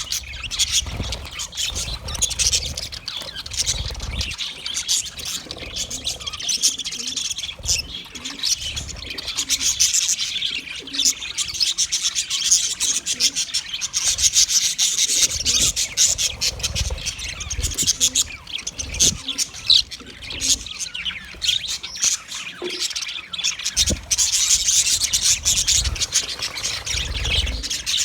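Budgerigar chatter: continuous rapid chirping and warbling, the contented sound of budgies.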